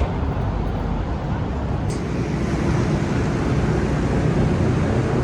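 Steady low rumble of car engines running and traffic, growing a little louder about halfway through, with a short click about two seconds in.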